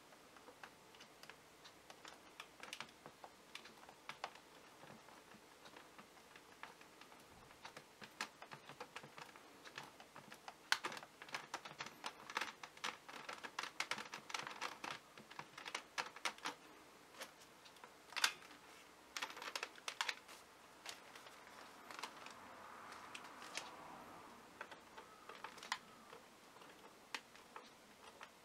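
Small irregular clicks and ticks of a Phillips screwdriver turning and seating screws in the plastic battery housing of a Dyson V6 cordless vacuum. The clicks come most thickly in the middle.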